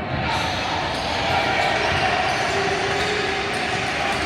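Basketball game sounds: a basketball bouncing on a gym floor amid spectators' chatter.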